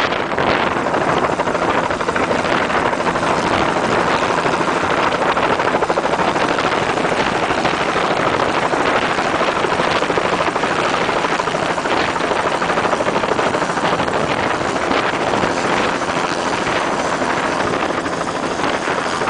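A small boat's engine running steadily under way, a constant loud drone mixed with the rush of air and water.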